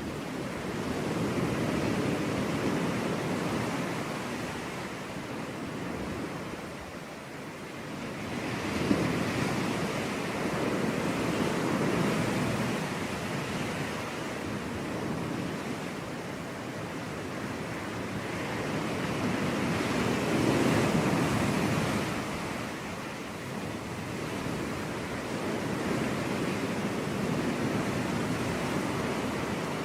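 Sea waves breaking and washing onto a beach, swelling and easing every few seconds, with a short splash about nine seconds in.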